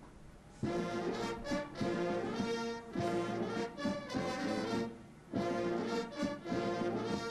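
Brass band playing slow, held chords; the music comes in about half a second in, breaks off briefly near five seconds, then resumes.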